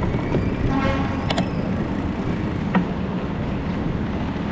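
Steady rumble of wind and road noise from a bicycle ride on a waterfront path. About a second in there is a short pitched toot, with a couple of sharp clicks after it.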